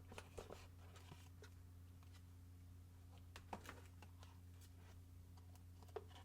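Soft scattered clicks and rustles of hands handling the camera's packaging and parts, in a small cluster in the first second or so, a louder one a little past three seconds in, and a single click near the end, over a faint steady low hum.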